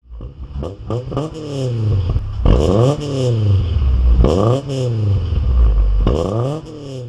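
Four-cylinder B20 VTEC engine in an EK Honda Civic being revved repeatedly: each blip climbs sharply in pitch and then falls back as the revs drop.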